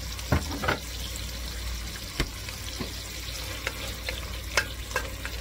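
Diced carrots and onions sizzling in butter in an enamelled cast-iron pot, stirred with a wooden spoon. A few sharp knocks come through the sizzle, the loudest near the start.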